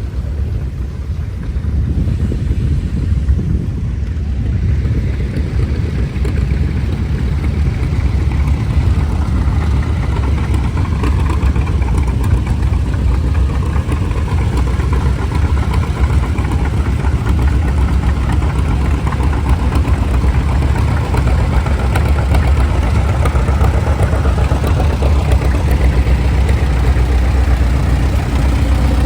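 Engine running steadily, a loud low rumble with no clear change in speed.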